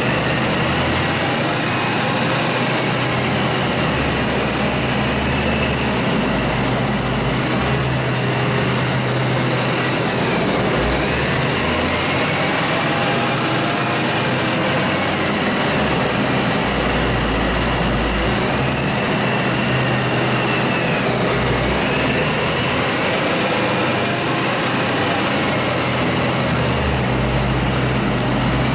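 Heavy farm machinery engine running steadily under load, with a faint whine that rises and falls in pitch in slow cycles about every ten seconds.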